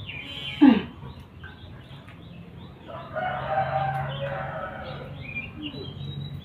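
Bird calls: a sharp falling cry just under a second in, then a longer call lasting about two seconds from about three seconds in, over small birds chirping.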